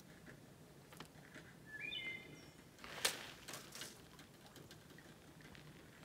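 Quiet outdoor background with one short high bird chirp, rising and then holding, about two seconds in, and a sharp tap about a second later.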